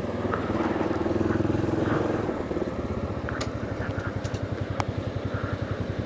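Motorcycle engine heard from the rider's seat while riding. The engine note swells in the first couple of seconds, then settles into a slower, evenly pulsing throb with a few light clicks, as if easing off.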